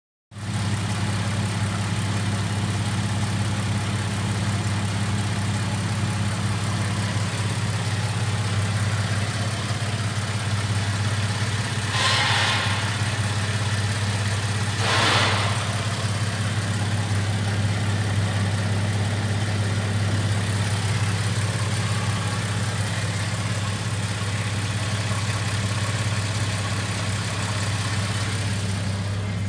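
Holden Commodore 3.6-litre V6 engine idling steadily with an even hum. Two short hisses come about three seconds apart midway through.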